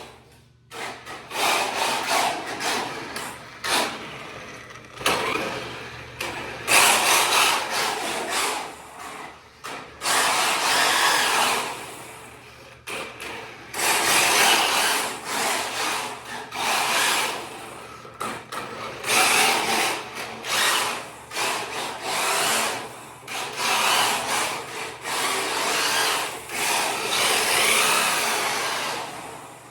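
Kyosho Fazer MK2 RC drift car with a Traxxas brushless motor, whirring in repeated surges of one to several seconds as the throttle is applied and let off, with short dips between.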